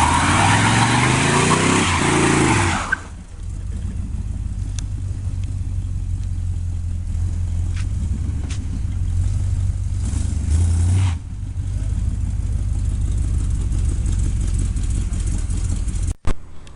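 1947 Dodge rat rod truck's engine revving hard under a loud rushing noise for about three seconds, its pitch rising and falling. It then settles to a steady lower running note, with a short rise again around eleven seconds, and cuts off abruptly just before the end.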